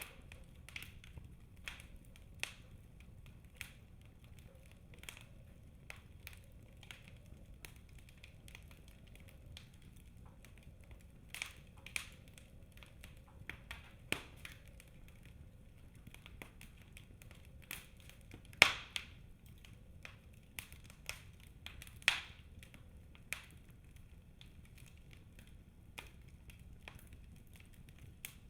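Wood fire crackling in a fireplace: a low steady rumble of the flames under irregular sharp pops and snaps of burning logs, with the loudest snaps a little over halfway through and again about three seconds later.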